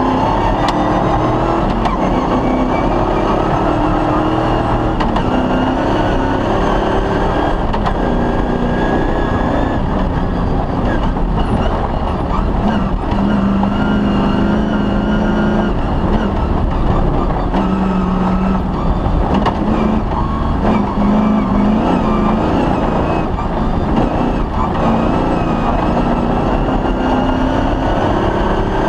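Cross-country rally car engine driven hard over a stage, its note rising and falling again and again as it revs and changes gear, over continuous rough road and mechanical noise.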